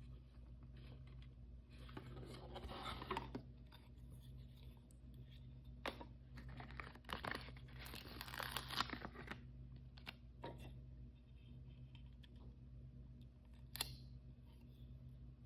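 Blind-bag toy packaging being handled and torn open, with two stretches of crinkling and tearing and a few sharp clicks in between and near the end.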